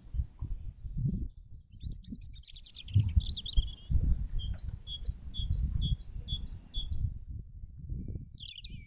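Songbird singing: a quick falling trill, then a clear two-note phrase, high note then lower, repeated about seven times in a row, over an irregular low rumbling noise.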